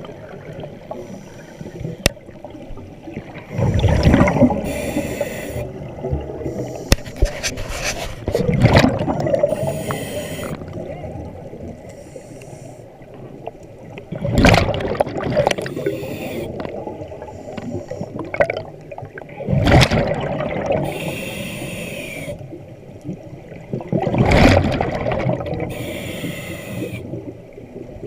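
A diver breathing underwater through a regulator: a rush of exhaled bubbles about every five seconds, five times, with the quieter inhale between them.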